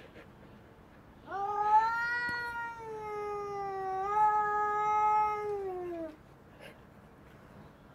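Cat caterwauling: one long, drawn-out yowl of about five seconds, starting a little over a second in, with its pitch holding and then sagging down as it ends.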